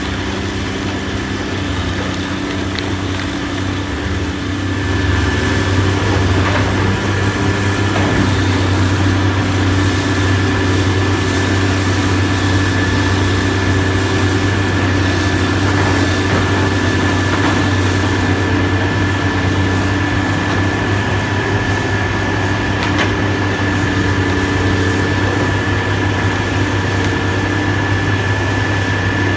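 Diesel engine of heavy demolition machinery running steadily, getting louder about five seconds in, with a steady high whine alongside it.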